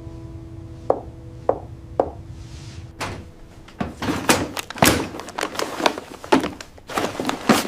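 A few soft, sparse pitched notes, then from about three seconds in a quick, irregular run of knocks and thuds.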